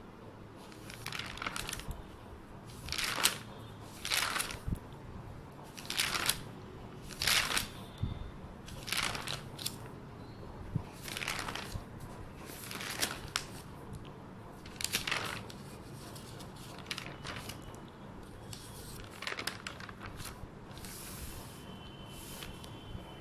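Repeated short rustling and crinkling noises, each under half a second, coming about once a second and thinning out in the second half.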